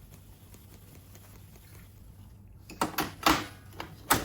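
A few sharp knocks and clacks, about four within a second and a half, starting near three seconds in, after a stretch of faint low hum.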